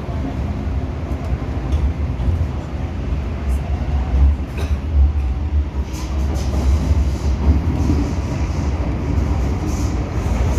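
MTR M-Train electric multiple unit running through a tunnel, heard from inside the passenger car. There is a steady low rumble from the wheels and motors, with a few sharp clicks.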